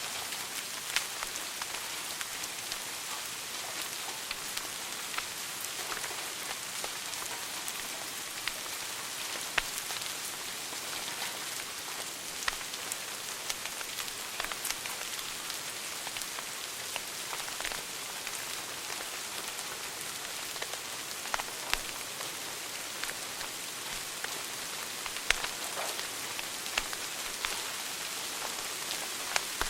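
Wood fire crackling in a fireplace: a steady hiss with frequent small irregular pops, and now and then a sharper, louder snap.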